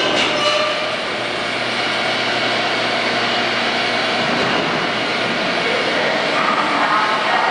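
R143 subway train running through the station: a steady rush of wheel and motor noise, with a pitched motor whine coming up again near the end.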